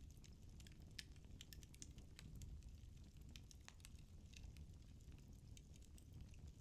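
Quiet wood fire crackling in a fireplace: irregular sharp pops and snaps, several a second, over a steady low rumble of the burning logs.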